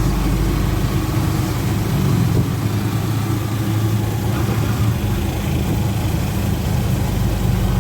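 A motor vehicle's engine running steadily, heard from close by with a low hum.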